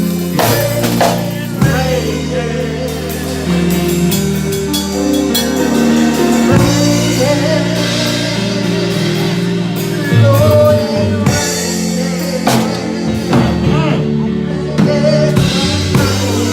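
Live church band playing gospel music: held low chords that change every few seconds, a drum kit, and singing over the top.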